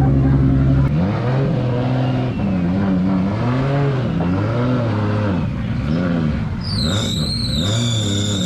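Drift car engine held steady for a moment, then revving up and down again and again as the car drifts, with a high tyre squeal coming in near the end.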